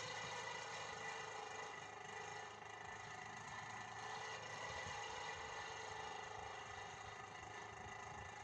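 Small electric motor running steadily with a whirring hum and a light rattle, holding an even pitch.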